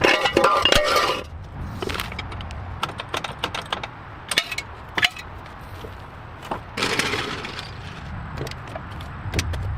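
A run of clicks, knocks and clatter, loudest in the first second and again about seven seconds in, over a low steady rumble.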